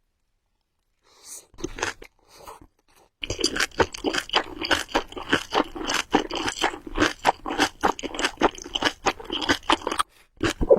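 Close-miked chewing of Samyang Buldak Carbonara instant noodles: a few brief mouth sounds, then rapid continuous wet chewing from about three seconds in.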